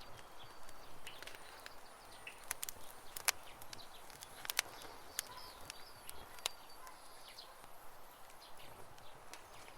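Wood campfire crackling with irregular sharp snaps and a few louder pops, over birds chirping in the background.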